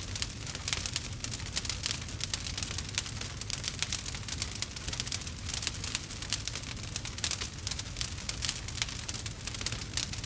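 Campfire burning, wood crackling and popping in a rapid, irregular patter over a low steady rumble of flame.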